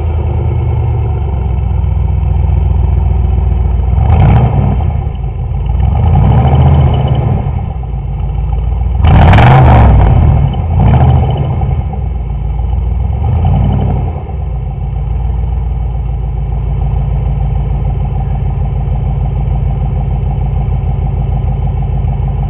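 A 1998 Chevy Silverado's 350 V8 running through true dual exhaust with Cherry Bomb glasspacks. It is revved several times between about four and fourteen seconds in, the biggest rev about nine seconds in, then settles to a steady idle.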